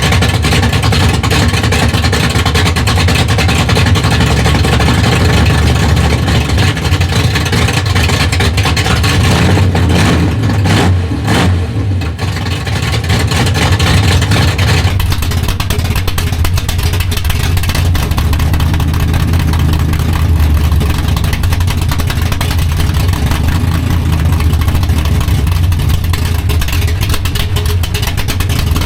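Small-block Chevy V8 (355 cubic inches) running loud and steady through fenderwell headers, with a brief drop in level about twelve seconds in.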